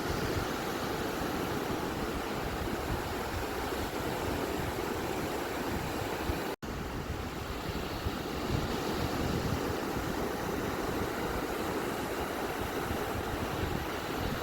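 Ocean waves washing on a beach as a steady, even rush of surf, with a momentary cut to silence about six and a half seconds in.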